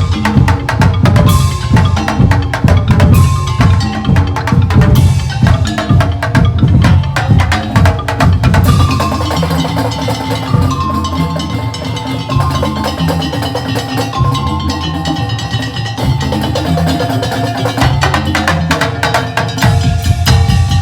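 Madurese ul daul (tong-tong) percussion ensemble playing: dense, heavy drumming with pitched notes over it. About nine seconds in the drumming thins out and a melody of held notes carries on over a lighter beat.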